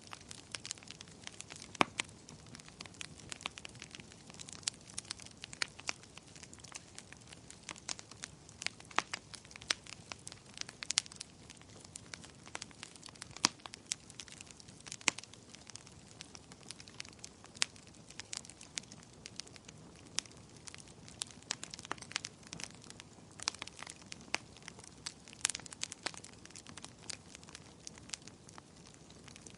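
Wood fire crackling in a fireplace: frequent, irregular sharp pops and snaps over a soft steady hiss.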